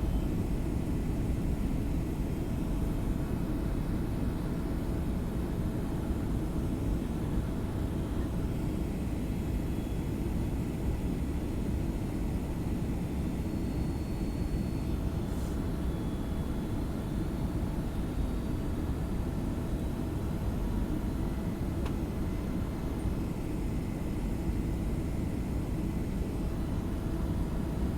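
Boeing 757-300 airliner cabin noise on approach: a steady low rumble of engines and rushing air, with a faint steady hum above it.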